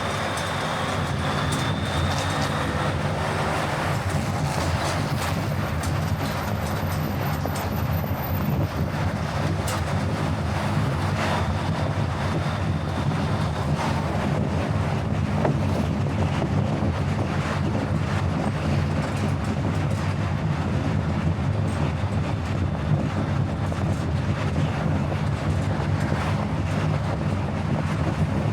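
Car driving at a steady speed: continuous tyre and road noise with a low engine drone.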